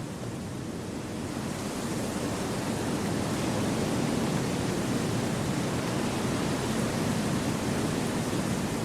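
Wind blowing through forest trees, a steady rushing noise that swells over the first couple of seconds and then holds.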